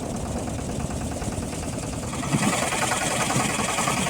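Motorboat engine running steadily, getting louder with more hiss about two seconds in.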